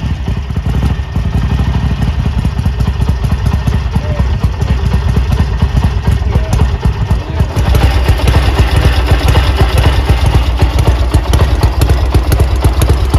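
Ducati Monster 1200 motorcycle's L-twin engine running with a dense, steady beat, getting louder about seven and a half seconds in.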